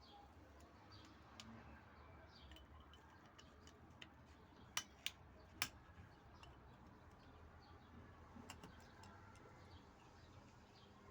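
Near silence with faint scattered ticks, broken by three sharp clicks in quick succession about halfway through.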